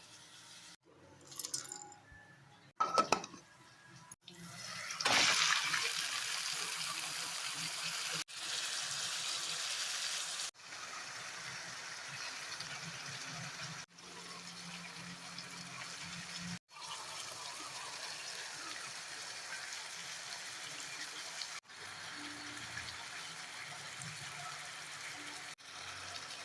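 A few knocks, then food sizzling in hot oil in a pan. The sizzle starts loud about five seconds in and settles to a steady hiss, broken by several abrupt cuts.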